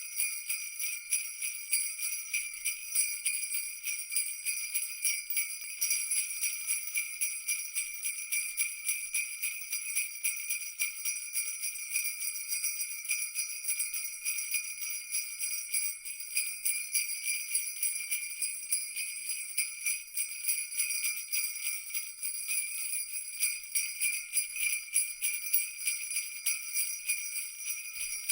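Jingle bells shaken continuously in a fast, dense jingling that keeps an even level throughout.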